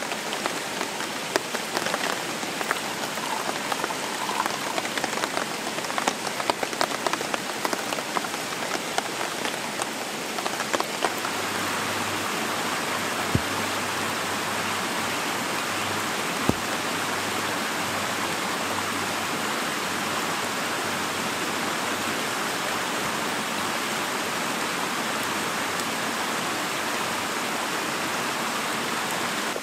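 Rain falling in woodland: drops tick sharply on leaves and nearby surfaces, and about eleven seconds in the sound settles into a steady, even hiss of rain.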